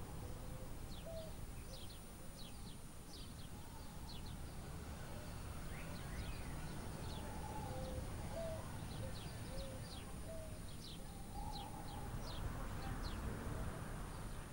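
Wild birds chirping: many short, high chirps throughout, mixed with a few lower whistled notes, over a steady low background rumble.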